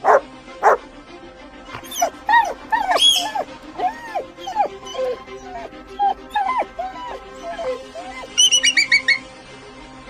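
A dog barking and yelping in a string of short, pitched calls, with a quick run of high, shrill calls near the end, over background music.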